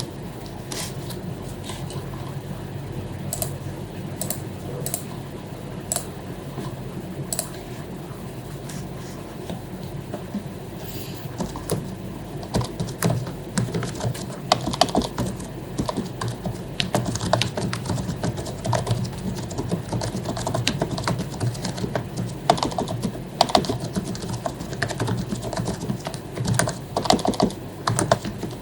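Typing on an HP membrane keyboard with lubed keycaps. The keystrokes are scattered for the first several seconds, then become rapid, continuous typing from about halfway through.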